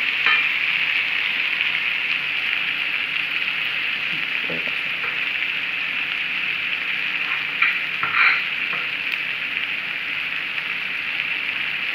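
Sliced onions, tomatoes and capsicum sizzling steadily in a frying pan, with a couple of brief knocks about eight seconds in.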